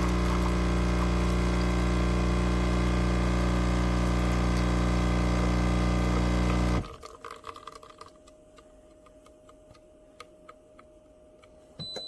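Cuisinart Barista Bar coffee maker's espresso pump running with a loud, steady hum as it brews a single shot, cutting off suddenly about seven seconds in. After it stops there are faint clicks and a short beep near the end.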